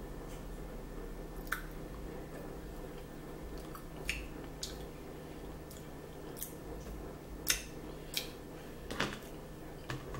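A person chewing food with wet mouth sounds and a handful of short clicks, over a steady low hum.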